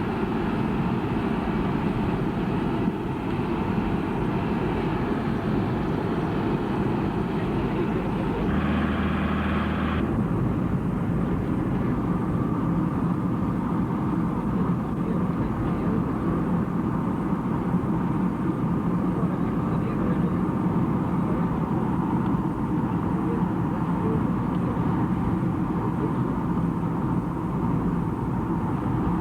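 Steady engine and road noise of a moving vehicle heard from inside, with a brief change in tone about nine seconds in.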